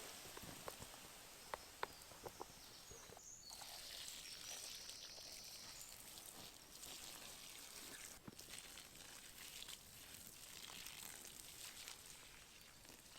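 Quiet forest ambience: a few faint sharp clicks or snaps in the first few seconds, and a brief high, even trill about three and a half seconds in that lasts about two seconds.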